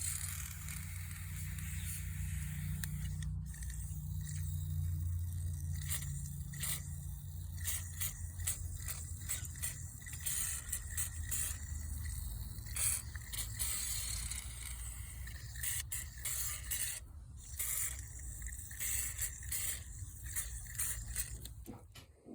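Irregular scraping and scrubbing strokes as small bicycle hub parts are cleaned by hand, over a steady low hum.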